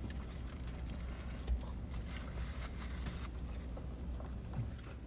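Chewing and small clicks from food being handled, scattered irregularly over a steady low hum.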